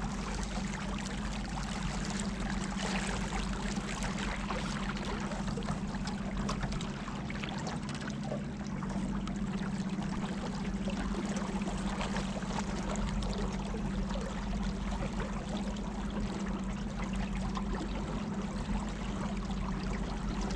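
Boat motor running steadily with a constant hum as the boat moves along the river, with water rushing past the hull.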